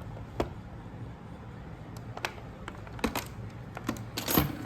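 Scattered light clicks and knocks from handling the robot vacuum's casing as it is put back together, a few isolated ones and then a quick cluster near the end, over a low steady hum.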